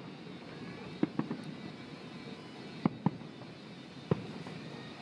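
Aerial fireworks shells bursting: five sharp bangs, a pair about a second in, another pair near three seconds and a single one just after four seconds, over steady background noise.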